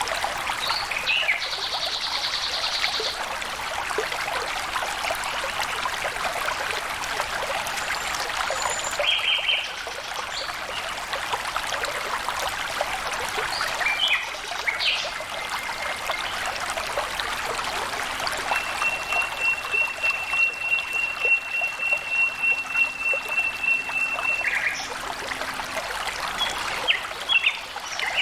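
Flowing water trickling and splashing steadily, with birds calling over it in short calls. About two-thirds through, a long steady high trill lasts about six seconds.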